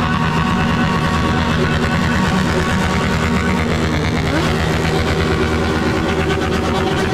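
Motorcycle engine running steadily at low revs, with a faint rising sound about four seconds in.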